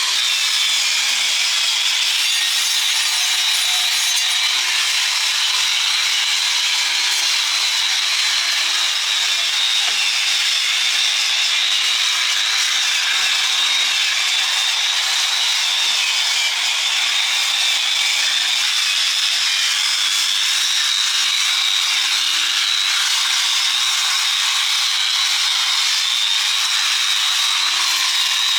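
Power tool abrading steel, likely an angle grinder, running continuously with a steady high-pitched whine and no let-up.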